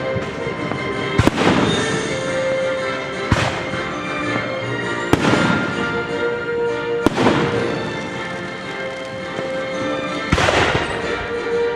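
Fireworks shells bursting overhead: five sharp bangs, several trailed by a hissing, crackling wash.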